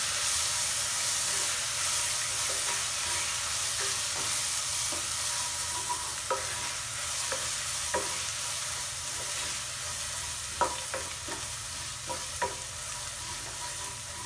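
Onions and ginger-garlic paste sizzling in hot mustard oil while being stirred, the spatula scraping and knocking against the pan. The steady sizzle carries through, with short knocks coming more often in the second half.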